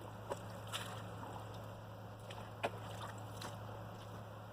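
Tractor engine idling with a steady low hum, and a few faint sharp clicks.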